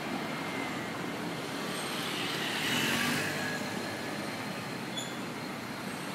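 Street traffic noise after the train has cleared the crossing: a steady hiss of road vehicles, with one vehicle passing by about two to three seconds in.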